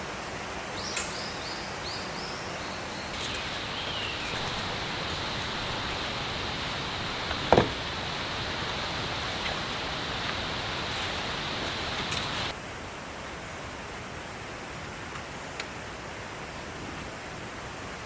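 Forest ambience under steady rain: an even hiss, with a few quick bird chirps about a second in and a steady high-pitched tone running from about three seconds until the sound drops in level near twelve seconds. A single sharp knock comes near the middle.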